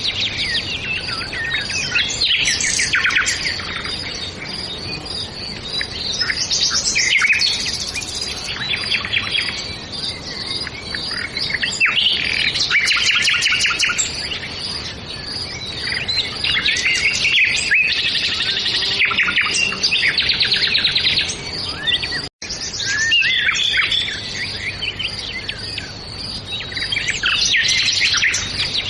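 Many birds chirping and calling at once in dense, overlapping bursts of quick high chirps and trills, broken by a momentary gap about two thirds of the way through.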